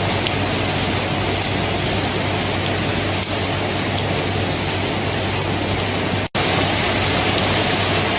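Steady, dense rainfall, an even hiss of drops without thunder. The sound cuts out completely for an instant about six seconds in, then resumes unchanged.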